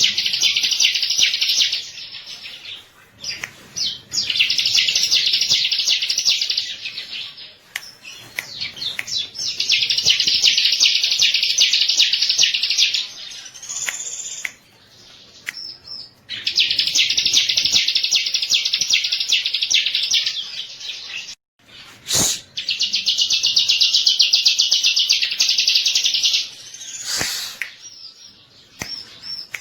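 Bar-winged prinia (ciblek) singing: a series of phrases a few seconds long, each a fast run of rapidly repeated high, buzzy notes, with short pauses between them. Two sharp clicks come in the second half.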